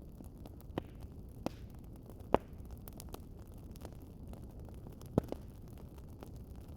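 Wood fire crackling: a steady low rumble with a few sharp pops, the loudest about two seconds in and another pair about five seconds in.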